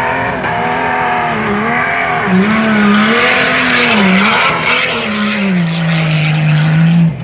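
Jeep Cherokee's engine revving hard, its pitch rising and dipping several times as the throttle is worked, then holding steady at high revs near the end.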